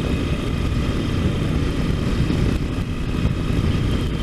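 Triumph Tiger motorcycle running steadily on the move, its engine under heavy, fluctuating wind rumble on the microphone.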